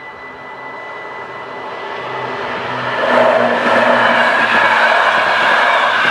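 NMBS AM'80 electric multiple unit approaching and passing over the level crossing. The sound builds over the first three seconds, then holds as a loud, steady rush of wheels on rails with a low motor hum.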